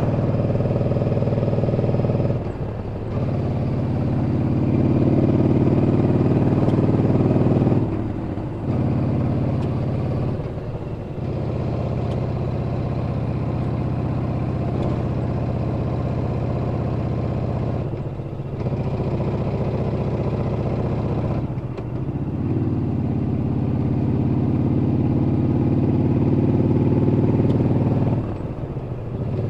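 Yamaha Bolt's air-cooled V-twin running under way. Its note drops for a moment about six times, then climbs again as the bike pulls away.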